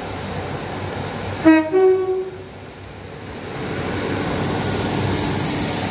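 Class 150 Sprinter diesel multiple unit sounds its two-tone horn about a second and a half in: a short lower note, then a longer higher one. The train then runs in alongside the platform, its running noise and engine hum growing louder.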